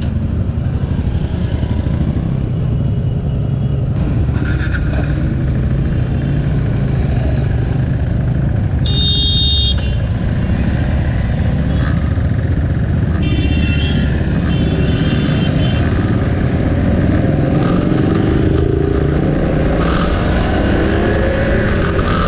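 KTM Duke 390's single-cylinder engine running steadily on the move, picked up by an action camera mounted on the bike; the revs climb near the end as it accelerates.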